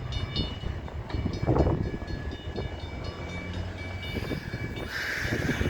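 CN freight grain train cars rolling past, with a steady low rumble and thin high squealing tones that come and go. A short hiss rises about five seconds in.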